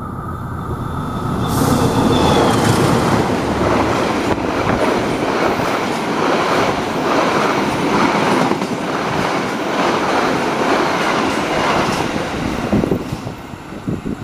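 Diesel-hauled passenger train passing close by: the locomotive's rumble swells over the first two seconds, then the coaches go by with a steady clickety-clack of wheels over the rail joints. The noise drops off near the end as the last coach moves away.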